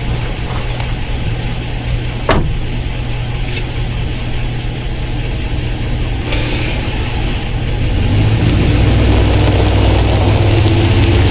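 Ram 1500 pickup's engine running, heard from inside the cab, growing louder about eight seconds in as it pulls harder. A single sharp click about two seconds in.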